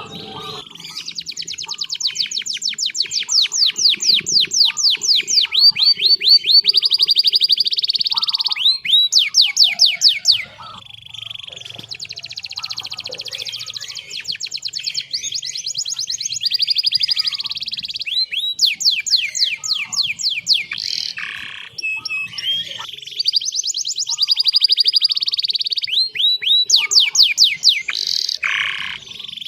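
Domestic canary singing a long, unbroken song: fast trills and rolls of rapidly repeated sweeping notes, each run at its own speed, switching from one phrase to the next without pause, with a softer, lower rolling trill a little after ten seconds in.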